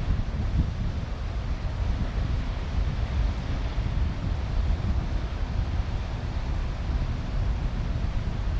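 Strong wind buffeting the microphone in a steady low rumble, over the wash of wind-driven waves on open lake water.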